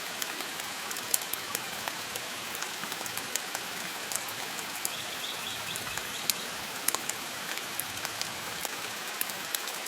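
Steady rain hiss, with irregular sharp crackles and pops from a wood fire scattered throughout.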